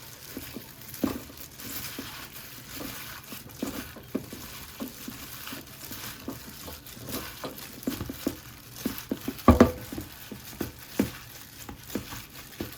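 Food frying in a pan while being stirred with a utensil: a faint steady sizzle under irregular knocks and scrapes, with one louder knock about three-quarters of the way through.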